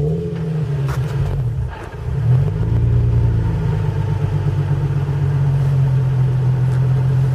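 Nissan 350Z's V6 starting through a Nismo exhaust. It catches at once, its note swells about two seconds in, then it settles into a steady, deep idle.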